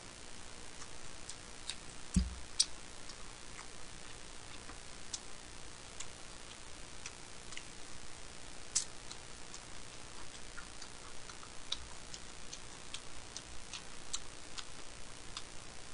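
A person chewing boiled pork (bossam) with chopsticks, making many small, irregular clicks from the mouth and chopsticks, with a single low thump about two seconds in.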